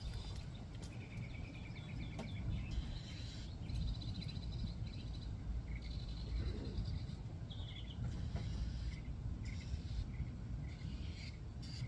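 Birds chirping and trilling over a steady low rumble, with a few faint clicks.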